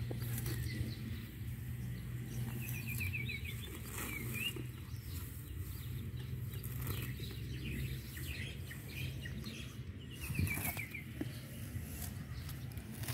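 A low steady hum that eases off about two-thirds through, with a small bird calling twice in short, quick trills of repeated high notes. Scattered soft crackles and rustles come from a young Asian elephant tearing grass with her trunk.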